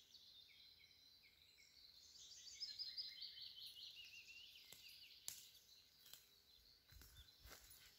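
Faint songbird song: a quick run of repeated notes that steps down in pitch. Near the end come a couple of sharp twig snaps and the soft rustle of footsteps through undergrowth.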